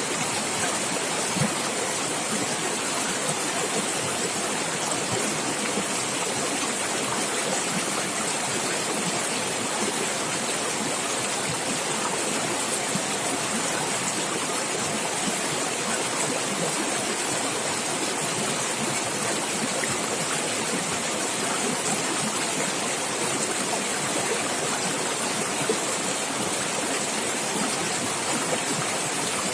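Running stream water gurgling and splashing in a steady, unbroken rush.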